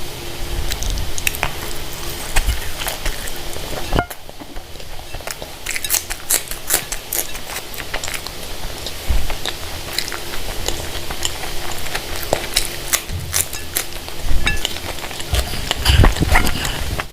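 A person chewing food close to the microphone: wet mouth clicks and smacks in a steady run, with a brief lull about four seconds in.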